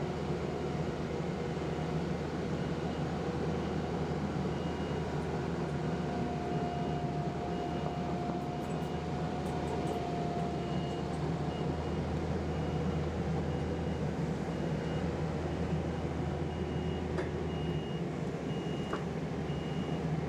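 Skid steer engine running steadily while handling an oak log, with a steady higher whine for several seconds midway. A faint high beep repeats at even intervals.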